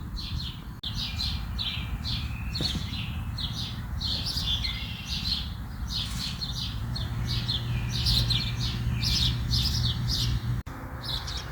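Starling fledglings squawking: a continuous flurry of short, harsh repeated calls, with a faint low hum underneath.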